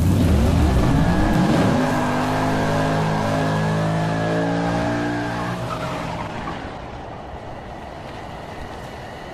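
Car engine revving up and holding at high revs with tyres squealing, as in a burnout; it fades away over the last few seconds.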